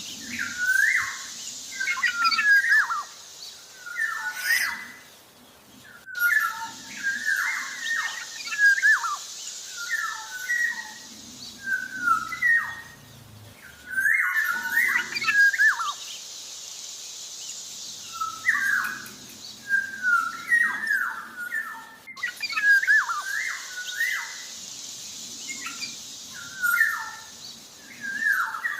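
Black-naped oriole (kepodang) singing busily: short phrases of quick sliding notes, repeated every second or two with brief gaps.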